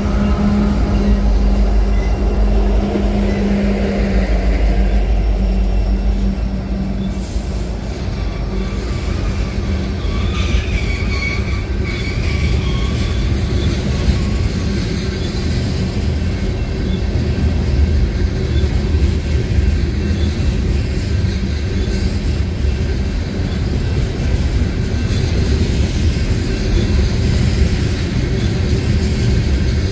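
Diesel freight locomotives rumbling past with a steady engine drone that fades after about six seconds. A long train of covered hopper cars follows, rolling by with a continuous heavy wheel-on-rail rumble and a faint high wheel squeal around the middle.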